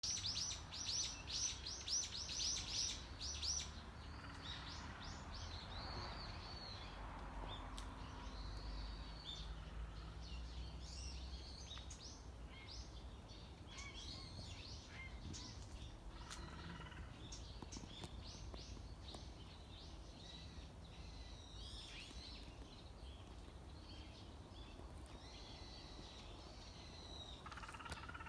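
Wild birds singing: a bird opens with a loud, fast run of high, falling notes, about three or four a second, lasting some three seconds, then several birds keep up scattered chirps and short song phrases.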